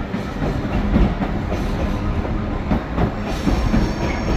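Freight train hauled by a Class 66 diesel locomotive rolling past, its wagons of old sleepers rumbling and the wheels clacking irregularly over the rail joints.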